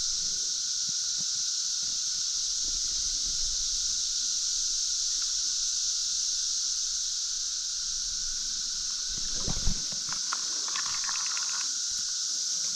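A dense cicada chorus: a steady, unbroken high-pitched drone with a lower steady hum beneath it, and a few soft knocks about two-thirds of the way in.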